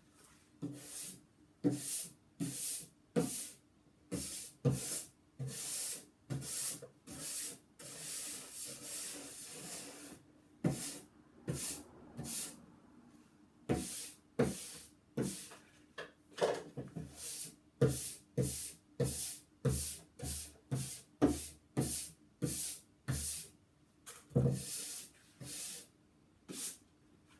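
Sandpaper rubbed by hand over a wooden tabletop in short back-and-forth strokes, about one or two a second, with one longer unbroken rub about a third of the way through.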